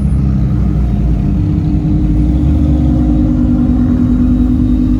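Car engine and exhaust running steadily with a low rumble, a steady drone growing stronger about two seconds in.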